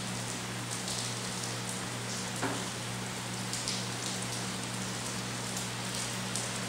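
Rain falling steadily, with scattered louder drops close by and a brief louder hit about two and a half seconds in; a steady low hum runs underneath.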